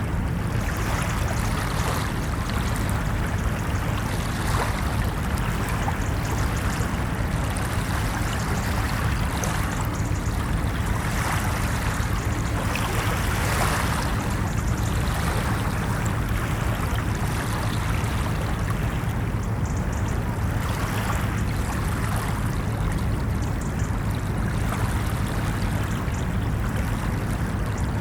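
Ocean surf washing onto a beach: a continuous rush of water over a deep low rumble, swelling gently now and then.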